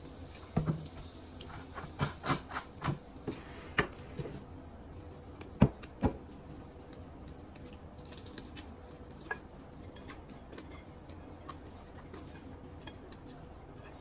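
Close-miked eating of fried chicken: a run of sharp crunches and wet smacks in the first six seconds, then quieter chewing and small clicks.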